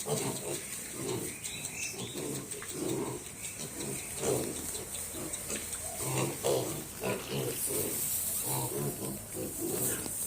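Pigs grunting over and over, short low grunts following one another closely without a break.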